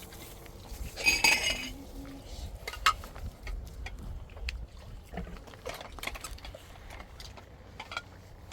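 A ringing metallic clink about a second in, followed by scattered light knocks and clicks.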